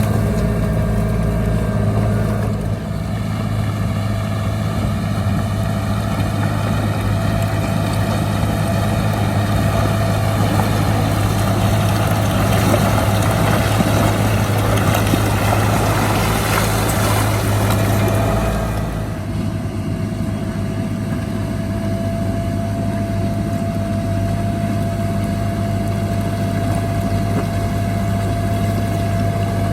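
Heavy diesel earthmoving machine running steadily, its deep engine drone carrying a steady whine. The engine grows louder and rougher for about ten seconds in the middle, as when working under load, then settles back.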